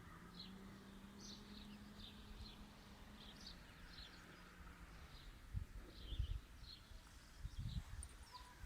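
Small birds chirping, short high calls repeating about twice a second. A faint steady hum runs underneath for the first half, and a few dull low thumps come in the second half.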